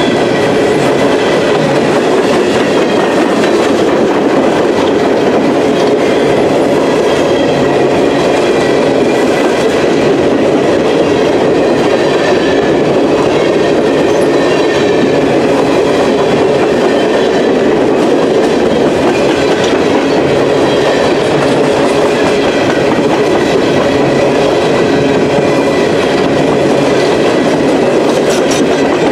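A string of empty CSX steel coal gondolas rolling past on jointed track: steel wheels running on rail in a steady loud rumble and rattle, with a faint high ringing from the wheels over it.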